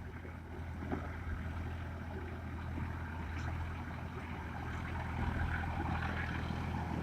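Massey Ferguson 241 tractor's three-cylinder diesel engine running with a steady low drone, gradually getting a little louder.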